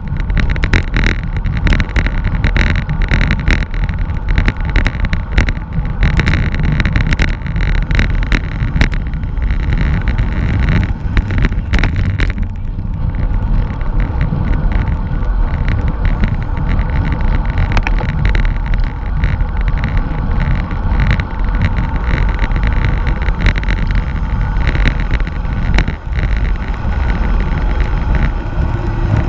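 Wind rushing over the microphone of a camera riding on a racing bicycle, with frequent sharp clicks and rattles that thin out about twelve seconds in.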